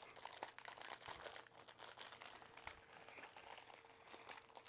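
Faint crinkling and light clicks of plastic packaging and small plastic toy trucks being handled.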